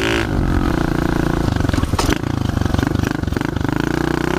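Pit bike engine revving and falling back as the throttle is opened and closed. Its pitch drops sharply just after the start and climbs again near the end, with a single sharp click about two seconds in.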